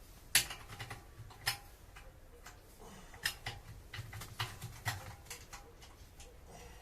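Irregular sharp clicks and knocks from parts of a tent wood stove being handled and fitted together, the loudest about half a second in.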